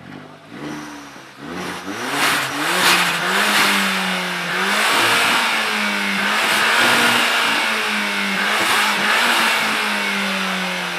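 Car engine revved hard through its exhaust: several quick rising blips in the first three seconds, then held at steady high revs that ease off slightly near the end.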